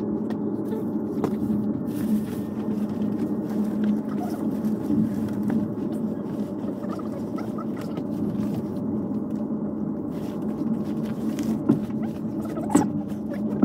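Moving passenger train heard from inside a sleeper compartment: a steady running rumble and hum, with two sharp knocks near the end.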